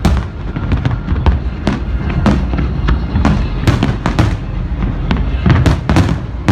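Aerial fireworks shells bursting in a loud, rapid, uneven string of bangs, well over a dozen, over a continuous low rumble.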